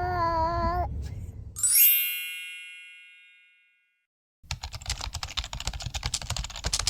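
A bright chime, led in by a quick rising swish, rings and fades away over about two seconds. After a short silence, rapid clicking like keyboard typing runs for about three seconds.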